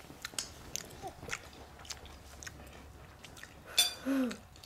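Faint, scattered wet clicks and smacks of people chewing food close to the microphone. A single voice gives a brief murmur with falling pitch about four seconds in.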